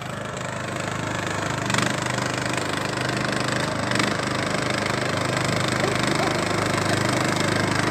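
Briggs & Stratton engine of a Craftsman riding lawnmower running steadily under load, growing gradually louder, with a couple of brief clicks.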